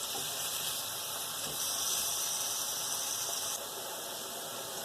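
Chopped onions sizzling as they fry in hot cooking oil in a pan: a steady hiss.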